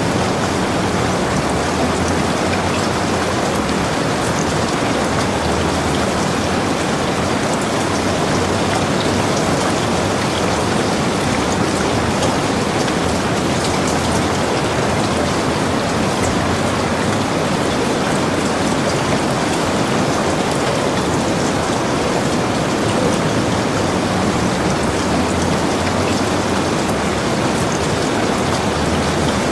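Heavy rain falling steadily, a dense even hiss with the patter of individual drops hitting surfaces.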